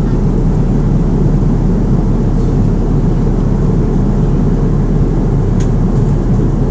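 Steady engine and airflow noise of an Airbus A330 airliner heard from inside the passenger cabin in flight, an even low rumble with hiss above it.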